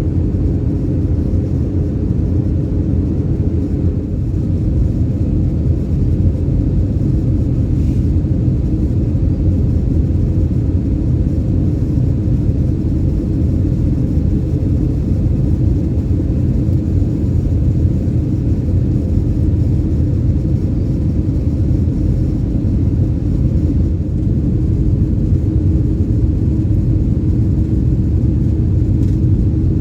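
Cabin noise of an Airbus A319 airliner: a steady low rumble with a faint even hum.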